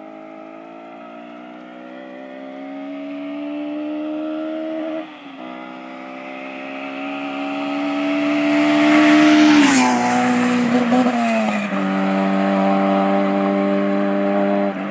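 Honda Del Sol's swapped K20A Type R 2.0-litre four-cylinder accelerating hard through the gears. The revs climb in each gear and drop at upshifts about 5 s in and near 12 s. It grows louder as the car approaches and is loudest as it passes about 10 s in, with a drop in pitch as it goes by.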